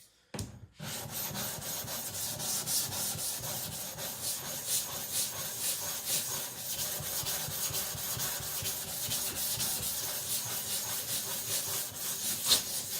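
Shapton 220-grit whetstone being flattened: its face rubbed back and forth against a flattening surface in quick, gritty strokes. The rubbing starts about half a second in.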